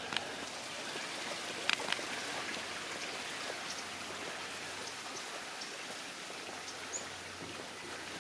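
Steady splashing of running water, with a few sharp clicks in the first two seconds and a brief high chirp about seven seconds in.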